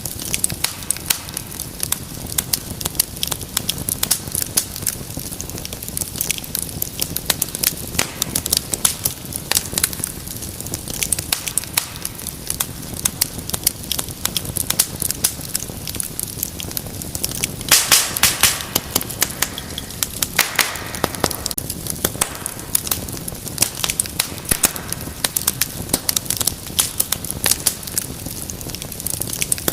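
Wood fire crackling and popping steadily in a fireplace, with a quick run of louder pops about eighteen seconds in.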